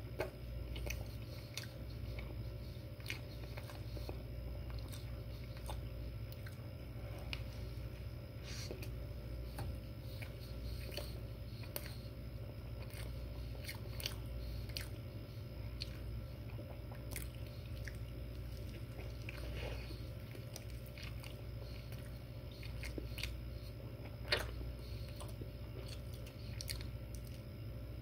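A man biting and chewing a breakfast sandwich close to the microphone, with scattered mouth clicks and one sharper click near the end, over a steady low hum.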